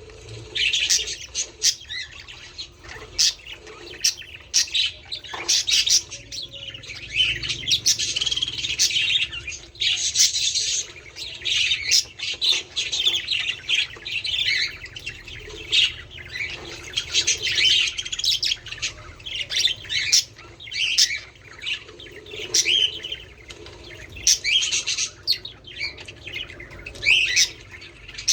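Budgerigars chattering and warbling together, a continuous dense run of short, high, overlapping calls with occasional sharp clicks among them. This is the kind of flock chatter played to encourage budgies to breed.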